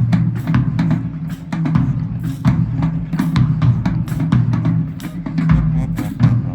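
Marching band drumline playing a fast cadence: snare drums and bass drums hitting a dense rhythm over a heavy low end.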